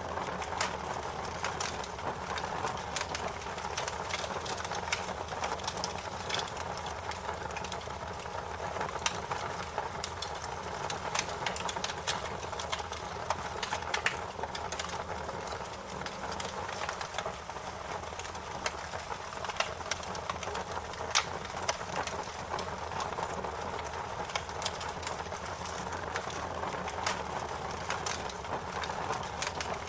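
Wood fire crackling: a steady hiss with frequent irregular pops and snaps, a few of them sharper and louder than the rest.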